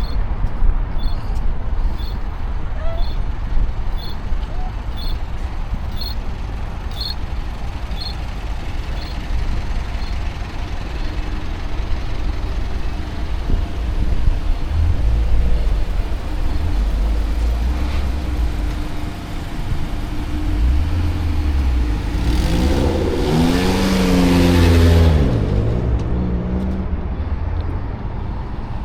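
City street traffic with a steady low rumble. For about the first ten seconds a small tick sounds about once a second. Near the end a large motor vehicle passes close by, loudest as it goes past, its engine note falling in pitch.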